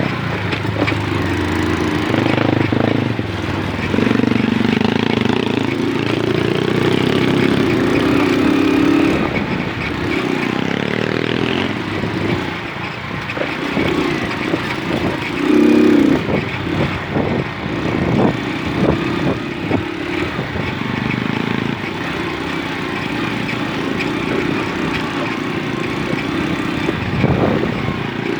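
Small moped engine running under way, its note rising and falling with the throttle, over a steady rushing noise.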